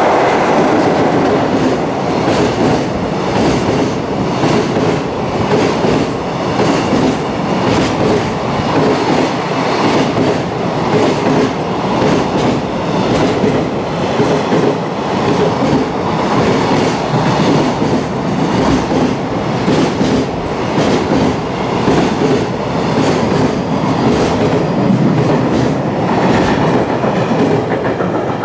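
A long freight train hauled by an EF66 electric locomotive passes at speed. The wheels give a steady rush with a fast, repeating clatter as the wagon bogies cross the rail joints, one after another.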